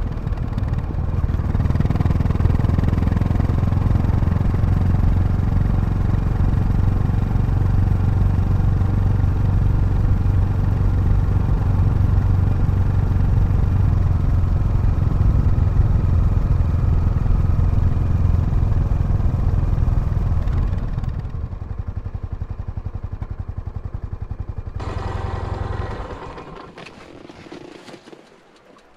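Yamaha SR400's air-cooled single-cylinder engine running steadily, then dropping in level about two-thirds of the way through and fading out near the end.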